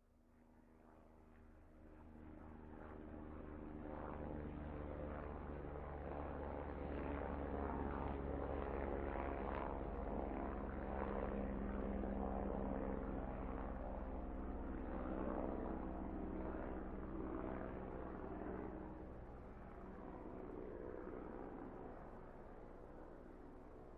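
Propeller airplane engine droning steadily, building up from silence over the first few seconds, loudest around the middle, then slowly easing off as if passing overhead.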